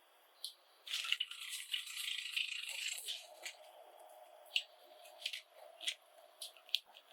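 Pet Java sparrows: a rattling burst starting about a second in and lasting some two seconds, followed by scattered sharp clicks.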